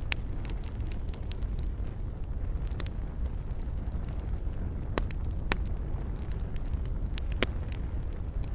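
Wood fire burning in a fireplace: a steady low rumble of flames with irregular sharp crackles and pops, the loudest a few pops in the second half.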